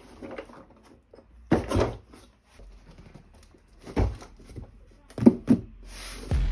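Plastic toy pieces and packaging being handled, with a few short knocks, two close together near the end.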